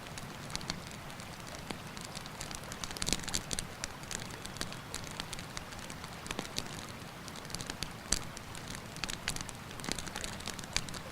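Campfire crackling, with frequent irregular sharp snaps and pops over a steady rushing of river water.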